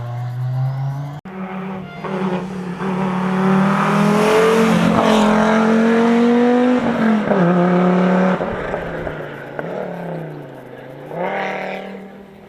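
Rally car engine accelerating hard, its pitch climbing, then stepping down at a gear change. It then falls away as the driver lifts off and picks up again near the end. The sound jumps abruptly about a second in, as from a cut between clips.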